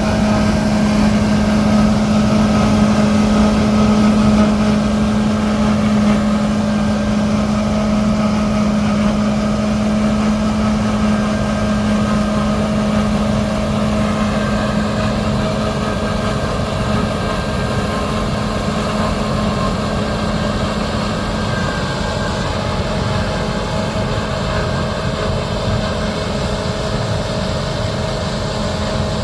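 Heavy diesel harvest machinery running steadily: combine harvesters and a tracked tractor in the wheat field. The drone is continuous and low, with a fixed hum and a fainter steady whine above it, easing slightly in loudness after a few seconds.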